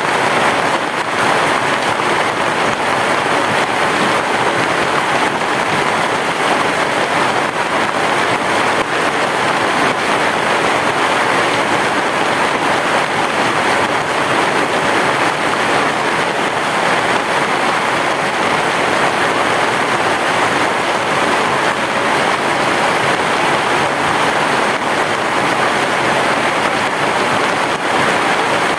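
Heavy rain falling steadily, a dense, even hiss of drops with no break or change.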